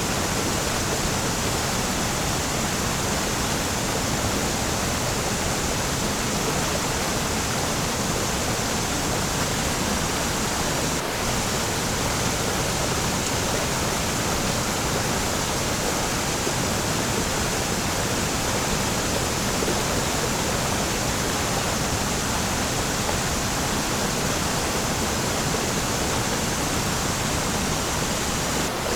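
Waterfall: water pouring and splashing as a steady, unbroken rush of noise that spreads across all pitches.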